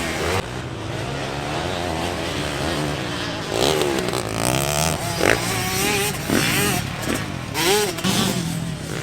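Several motocross bike engines racing on the track, their pitch rising and falling over and over as the riders open and close the throttle and change gear.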